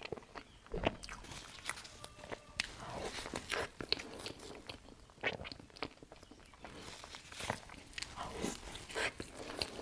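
Close-miked mouth sounds of someone biting and chewing cake: irregular smacks and clicks, several a second.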